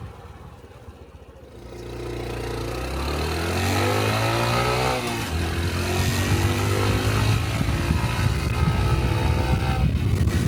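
Honda Cub 125 cc single-cylinder motorcycle engine pulling away and accelerating: the pitch climbs for a few seconds, drops at a gear change about halfway through, then climbs again, with another shift near the end.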